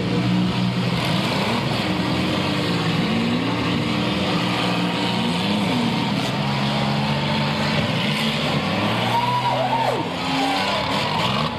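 Several demolition derby cars' engines revving up and down at once as the cars manoeuvre in the arena, their pitch rising and falling.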